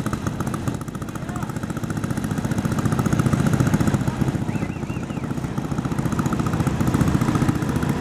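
Small garden tractor engine running hard with a rapid, even firing beat, swelling louder about midway and again near the end.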